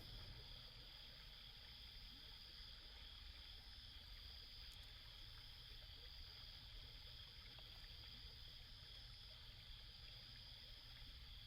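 Faint, steady high-pitched chorus of insects trilling, over a low rumble.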